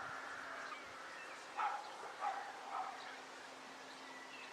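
Crows calling: a series of short, harsh caws as they mob a flying RC glider.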